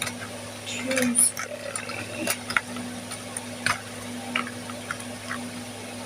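A few light clicks and rustles of school supplies being handled and packed, over a steady low hum.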